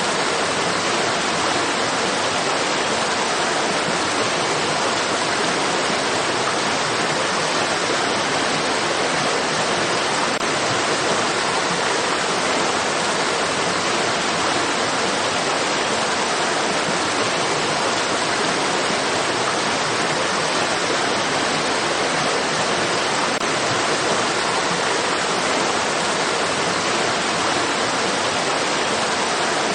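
Flowing stream water rushing steadily, an even, unchanging hiss-like rush with no breaks or distinct splashes.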